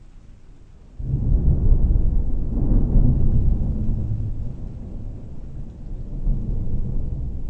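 A thunderclap: a sudden loud onset about a second in, then a deep rolling rumble that slowly fades.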